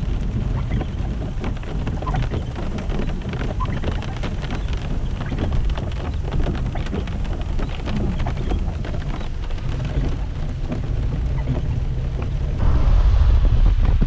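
Heavy thunderstorm rain, a dense patter of drops with a low wind rumble on the microphone. About twelve and a half seconds in, it gives way to a louder, deeper sound.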